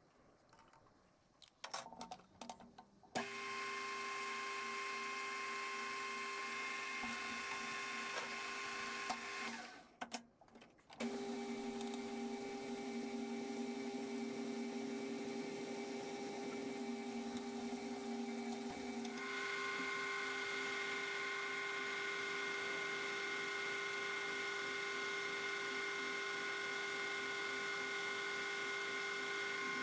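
Metal lathe motor and spindle starting up after a few handling knocks, running with a steady whine. It stops briefly about ten seconds in, then restarts, and its tone changes near the twenty-second mark as the speed or cut changes.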